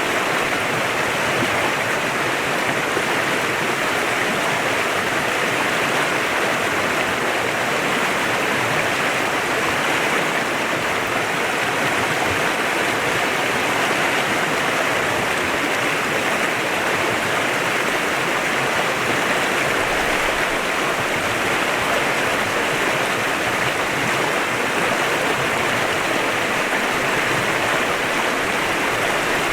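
Clear mountain stream flowing, its water rushing and splashing in a steady, even wash with no breaks.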